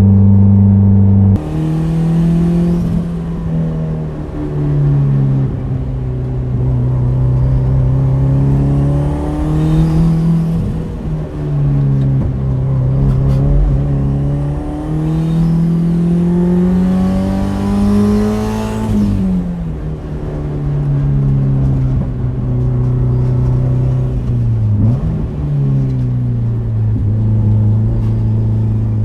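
Turbocharged Subaru WRX flat-four with a straight-pipe exhaust, pulling hard through a winding run: the engine note climbs in pitch twice, falls away sharply about two-thirds of the way through, then comes back on the throttle.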